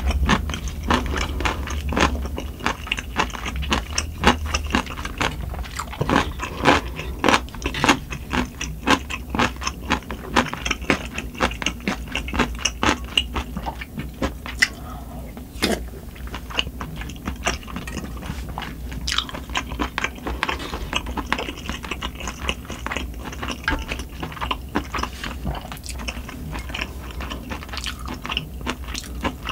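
Close-miked, wet chewing and mouth smacks of someone eating spicy sundae gukbap: pork, blood sausage and rice in red broth, in a quick run of small clicks. A steady low hum lies underneath, from wind and rain.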